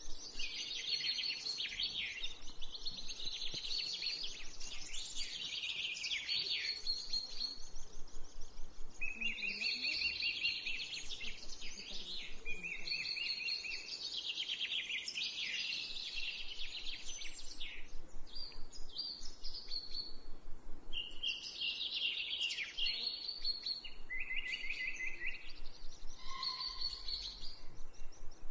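Wild birds chirping and trilling, high-pitched, in rapid, buzzy phrases one to two seconds long that repeat throughout.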